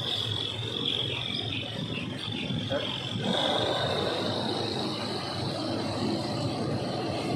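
Steady vehicle running noise, a rumbling hiss that grows louder about three seconds in, with a steady high insect shrill above it.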